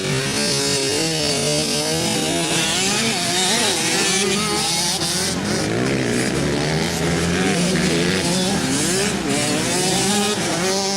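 Several motocross bikes racing, their engines overlapping and revving up and down as the riders work the throttle.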